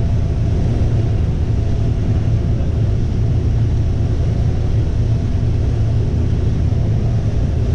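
Combine harvester running steadily while harvesting corn: an even low drone with a few steady tones over it.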